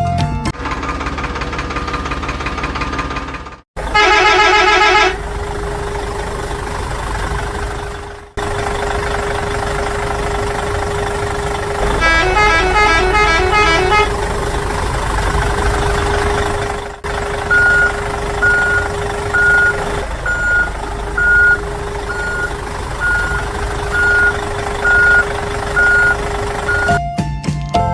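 Truck engine running with horn honks twice, then a steady reversing beeper sounding a little faster than once a second. The sound breaks off abruptly a few times, as if spliced from short pieces.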